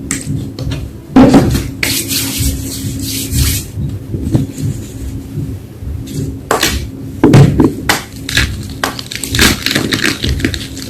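Reform gym chalk being crushed, with irregular crunching and crumbling crackles and two loud crunches, about a second in and about seven seconds in.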